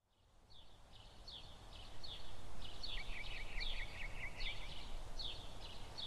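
Small birds chirping in repeated short calls, with a quicker run of chirps joining about halfway, over a steady low outdoor rumble. The sound fades in from silence over the first two seconds.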